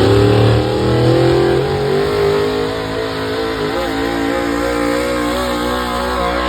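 Pulling vehicle's engine running hard under load as it drags the weight-transfer sled. Its pitch rises over the first second and a half, then holds high and steady with slight wavering.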